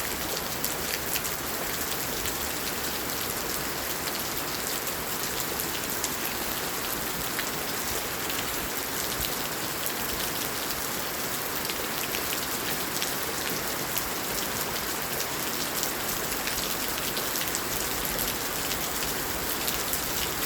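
Steady rain falling, an even hiss with many separate drops ticking sharply throughout.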